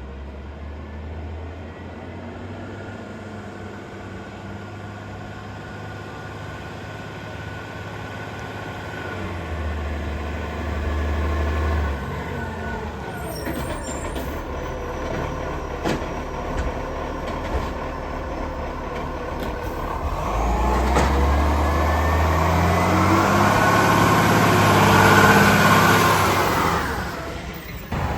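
Garbage truck's diesel engine running, with a few sharp knocks partway through, then revving up louder for several seconds before dropping away near the end.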